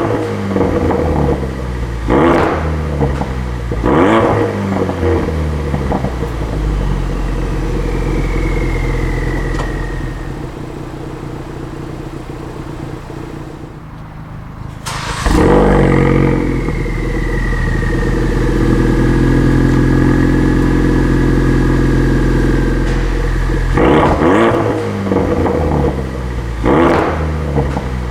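Ford Focus RS Mk3's 2.3-litre turbocharged four-cylinder through an HG Motorsport EGO-X cat-back exhaust, blipped in several quick revs, then settling to a lower, steady note with a faint falling whine. About halfway through it comes in suddenly louder and runs at a steady raised idle, and a few more short revs follow near the end.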